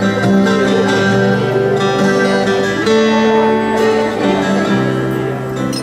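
Live acoustic instrumental music led by guitar, with sustained chords changing every second or so over a lower bass line.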